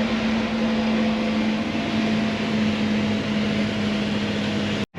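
Steady drone of harvest machinery, an engine running at constant speed with an even hum, breaking off abruptly near the end.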